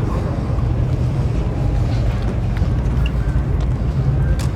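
A steady low rumble with a few faint scattered clicks above it.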